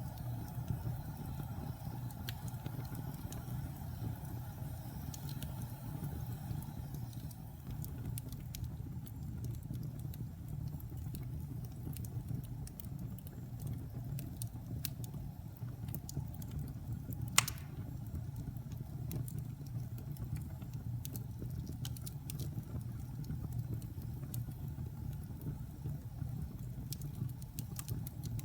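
Wood fire burning in a fireplace: a steady low rumble of flames with scattered small crackles and one sharp, louder pop about seventeen seconds in.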